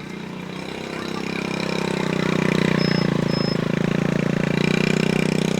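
A motor vehicle's engine running, growing louder over the first two seconds, holding steady, then dropping away near the end.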